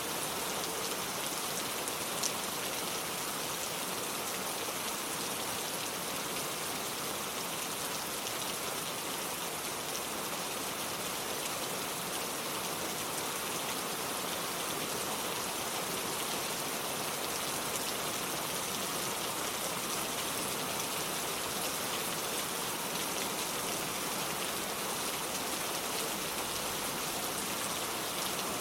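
Steady rain falling and pattering on hard surfaces, with scattered individual drops ticking.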